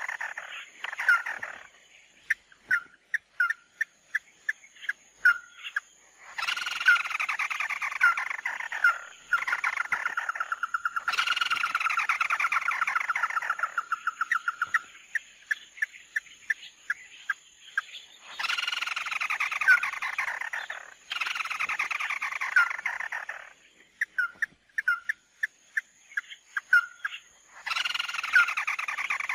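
Recorded calls of the bird known in Vietnamese as 'mắt đỏ', played as a trapping lure: long sweeping calls of a few seconds each, falling in pitch, alternate with runs of short clipped notes, the pattern repeating several times.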